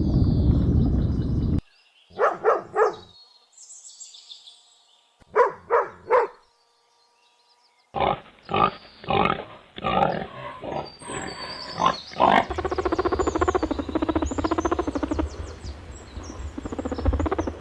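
Animal calls in several edited bits: a low rumble, then two groups of three short calls, then a long stretch of rapid, pulsing calls.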